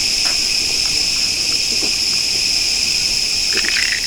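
A steady chorus of crickets chirring at a high, even pitch, with a few faint clicks and taps.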